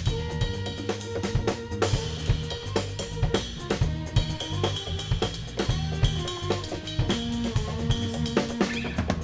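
Live band playing an instrumental passage: a drum kit keeping a steady beat over a moving bass line, with held higher notes on top.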